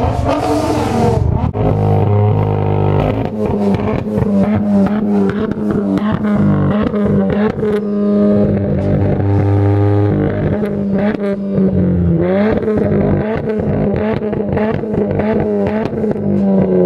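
Car engine revved and held at high rpm, its pitch held steady for seconds at a time with rapid crackling throughout; the pitch climbs about two-thirds of the way in and drops off at the end.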